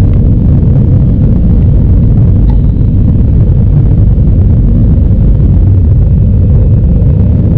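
Airbus A320-216 cabin noise in the climb after take-off: a loud, steady low rumble of its CFM56 engines and the rushing air around the fuselage.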